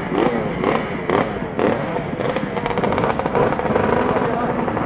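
Two-stroke motorcycle engines revving in quick blips, their pitch rising and falling over and over, more than one engine at once. They settle into a steadier running note for about a second near the end before another rev.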